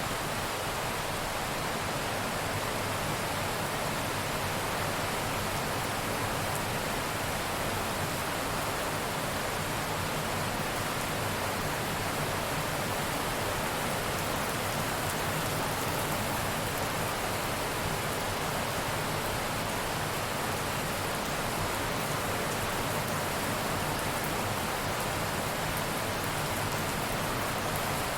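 Steady rain, heavy and even, a continuous hiss of drops with no thunder.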